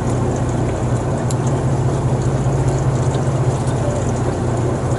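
Boat engine running at a steady speed: a constant low drone with a fast even throb.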